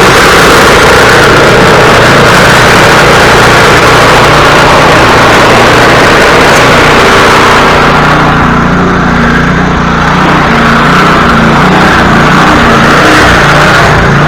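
Snow thrower engine running steadily and loud. About eight seconds in, the higher hiss drops away while the engine keeps running.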